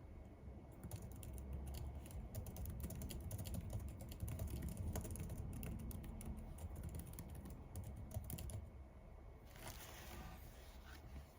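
Typing on a computer keyboard: a steady run of rapid keystrokes that stops about two-thirds of the way through, followed by a short rustle near the end.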